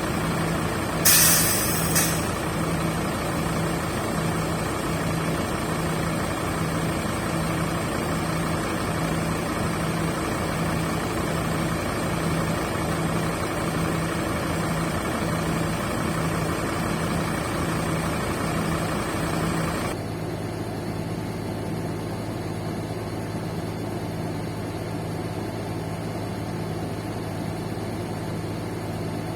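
Scania K310 coach idling, with a short burst of air hiss from its air system about a second in. A low tone pulses about once a second over it. Near twenty seconds the sound changes abruptly, turning duller and steadier and losing the pulsing.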